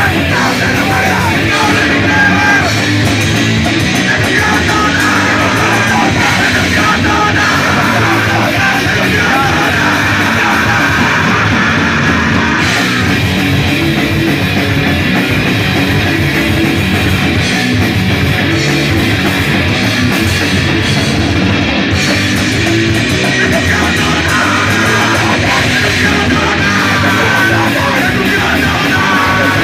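Loud, distorted punk rock: electric guitar, bass and drums playing steadily, with shouted vocals.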